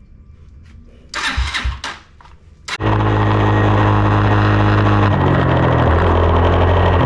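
2020 SSR 189 dirt bike's single-cylinder four-stroke engine being started cold after sitting for months. A first try about a second in doesn't catch. The engine fires just under three seconds in and runs steadily, its pitch dropping a step a couple of seconds later as it settles.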